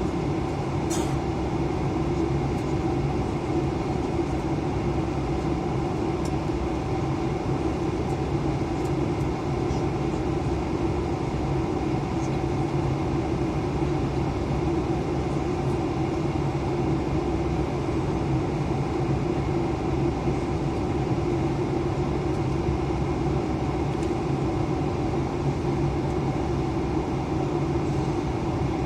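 Steady engine and airflow drone of an Airbus A320 airliner in flight, heard from inside the cabin: an unchanging rush with several constant hums layered in it.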